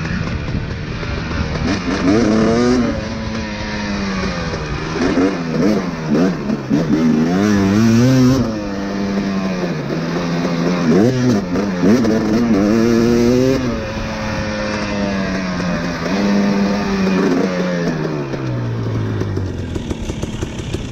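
Dirt bike engine being ridden hard, revving up and dropping back again and again as the throttle is worked.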